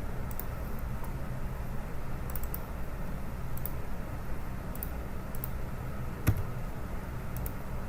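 Scattered keystrokes and clicks on a computer keyboard and mouse, a few soft taps spread out, with one sharper click about three quarters of the way through, over a steady low background hum.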